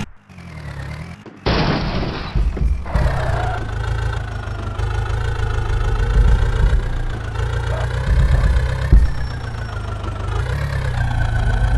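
Mahindra tractor's diesel engine running steadily, its pitch rising and falling slightly. The sound cuts out briefly at the start, and a loud burst of hiss comes about a second and a half in and lasts just over a second.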